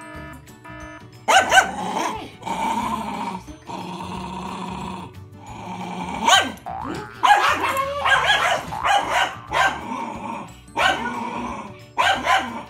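A small dog growling and barking in several short fits, with music playing underneath.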